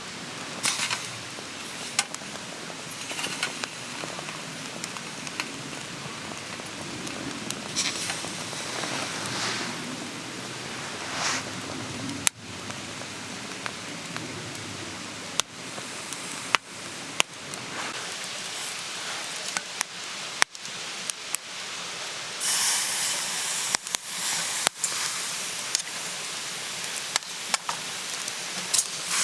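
Wood fire crackling, with sharp pops scattered irregularly over a steady hiss that grows louder for a few seconds a little after two-thirds of the way through.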